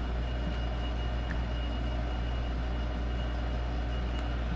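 Steady background machine hum with a thin high whine over it, and a couple of faint light ticks.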